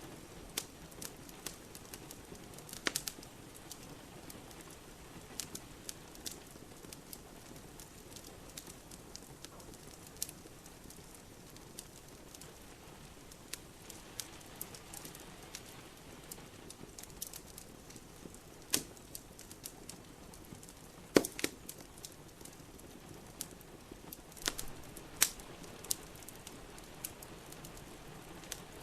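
Wood fire burning in a fireplace, crackling with scattered sharp pops, a few of them much louder about 3, 21 and 25 seconds in, over a soft steady hiss.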